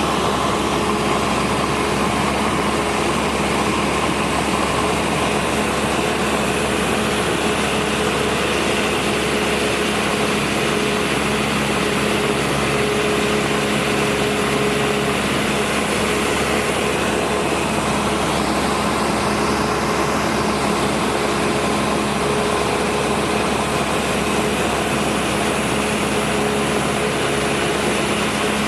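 Cessna 172 Skyhawk II's four-cylinder piston engine and propeller running steadily at an even pitch, a loud constant drone.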